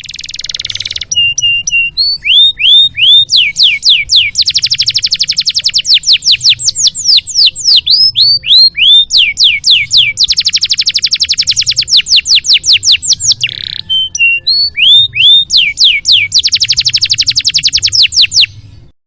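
Domestic canary singing a varied song: fast rolling trills alternating with runs of repeated sweeping whistle notes, breaking off briefly twice.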